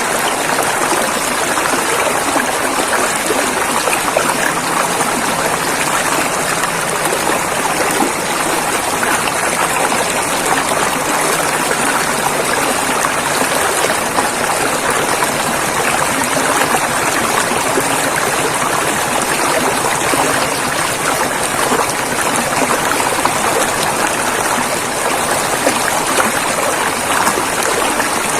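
River water flowing and rushing over rocks, a steady, even splashing and gurgling.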